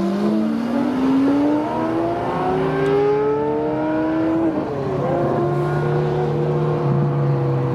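Car engine accelerating, its note rising steadily for about four seconds, then falling back about halfway through to a steady lower running note, with another car's engine running beside it.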